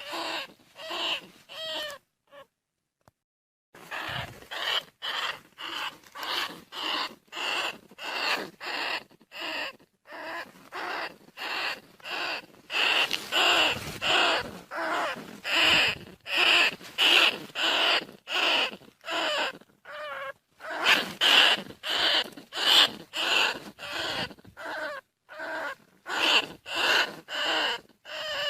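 Bandicoot rat squeaking: short, high calls repeated about twice a second, with a brief pause near the start.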